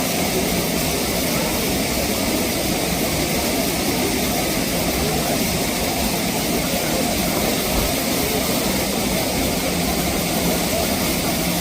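Waterfall's falling water, a steady unbroken rushing noise.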